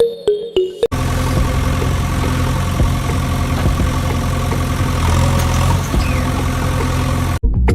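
A vehicle engine running steadily, starting suddenly about a second in and cutting off abruptly near the end, after a moment of music.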